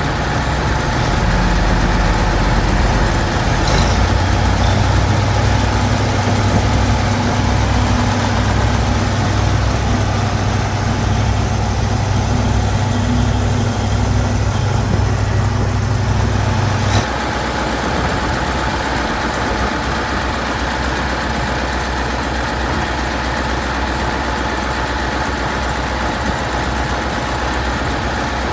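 Massey Ferguson V8 diesel tractor engine running steadily with a deep drone. The low part of the drone drops away abruptly about seventeen seconds in, and the engine carries on more thinly after that.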